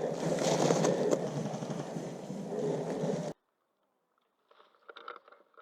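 Rustling and scraping noise with a few sharp ticks, cutting off suddenly about three seconds in; a few faint clicks near the end.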